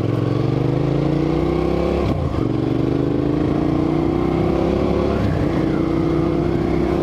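Motorcycle engine accelerating through the gears: a rising engine note that drops and climbs again at two upshifts, about two seconds and five seconds in.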